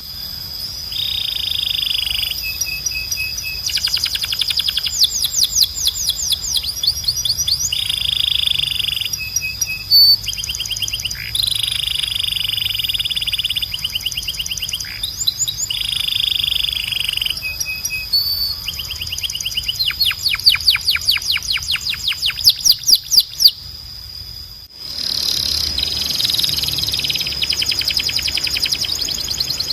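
Belgian canary singing a run of rapid trills and rolling phrases, each held for a second or two before switching to another. Over them sits a steady high tone. The song breaks off briefly near the end, then picks up again.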